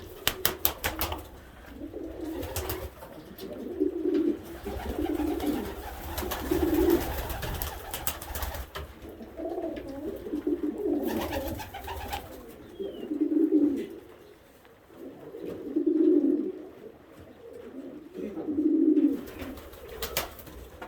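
Homing pigeons cooing in a loft, low coos repeating every couple of seconds. A quick run of sharp clicks sounds in the first second.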